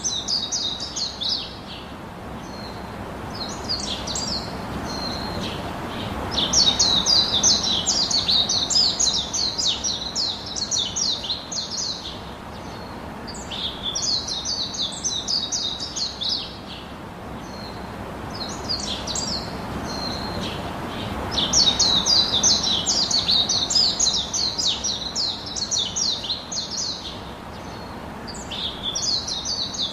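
Birds chirping in bursts of rapid, high chirps that come every few seconds, some short and some running about five seconds, over a steady background hiss.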